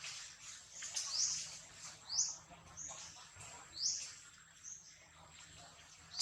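Baby monkey giving short, high-pitched squeaky cries, several in a row, fading out over the last couple of seconds.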